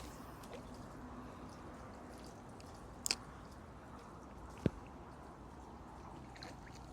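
Water sloshing and dripping over a steady background hiss, with two sharp clicks about a second and a half apart.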